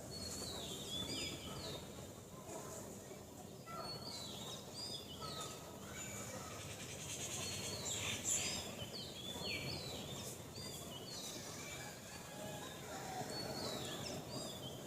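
Bird song: a short phrase of high, stepped notes falling in pitch, repeated about every three seconds over a steady outdoor background hiss.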